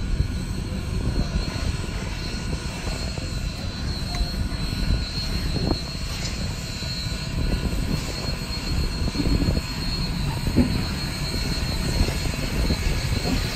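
Union Pacific steam locomotive's auxiliary water tender rolling slowly past on its trucks: a steady low rumble with a faint high hiss and a few light knocks.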